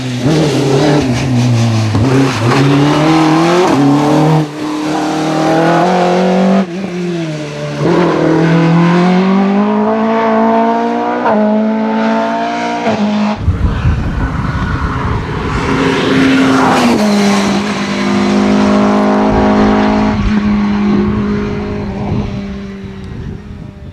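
Rally car engine revving hard, its pitch repeatedly climbing and then dropping with each gear change as it drives through the stage. About halfway through a deep rumble comes in suddenly under a steadier engine note, which fades away near the end.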